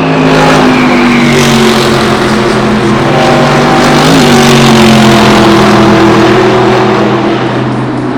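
Race car engines at high revs passing on the circuit, several engine notes at once, their pitch sliding slowly down over the first half and then holding steady.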